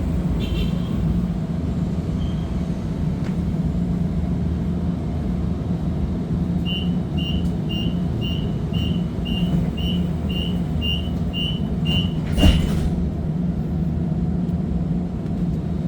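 Inside a streetcar stopped at a station: the tram's steady low hum, then a run of short high beeps, about two a second for some five seconds, the doors' closing warning. Just after the beeps stop comes a single sharp thud, the loudest sound.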